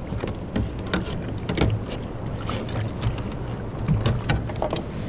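Scattered knocks and clicks on a plastic fishing kayak, as fish and gear are handled on deck, over a steady low rumble of wind and water.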